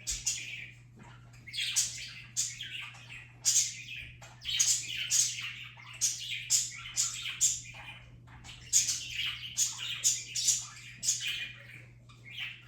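A bird chirping over and over in short, high calls, about one or two a second, over a steady low hum.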